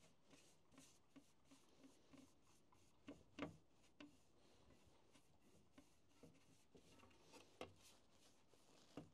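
Near silence, with faint rubbing and light ticks and a few short scrapes: oil being worked by hand into a freshly carved wooden oven peel.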